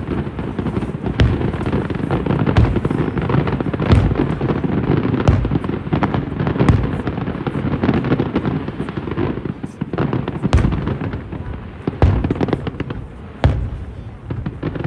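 Aerial fireworks bursting in quick succession: a continuous rumble of low booms with many sharp cracks, thinning out into more separate bangs in the last few seconds.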